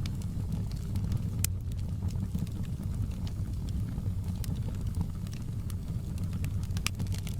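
Wood fire burning in a fireplace: a steady low rumble with scattered crackles and pops of the burning logs. The sharpest pops come about a second and a half in and again near the end.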